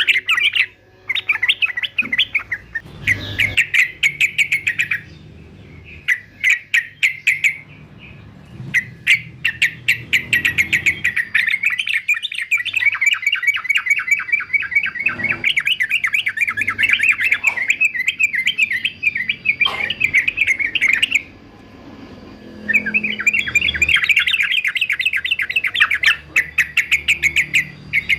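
Male yellow-vented bulbul (trucukan) singing in long runs of rapid chattering notes, with a few short pauses.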